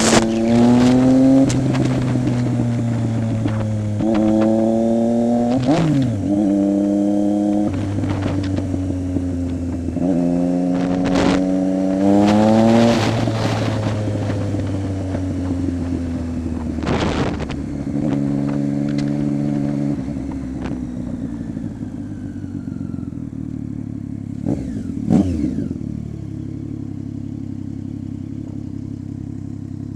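Triumph Street Triple 675 inline-three engine through a Coffman's exhaust with the baffle removed, running loud. Its pitch rises and falls several times, with a few short sharp knocks, then it settles to a steadier, lower note near the end.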